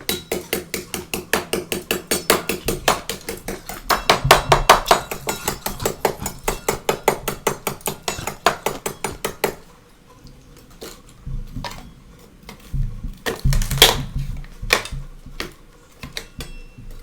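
Close-up crunching of freezer frost: a fast run of sharp crackles, several a second, for about nine seconds, then a quieter stretch and a few more heavy crunches near the end.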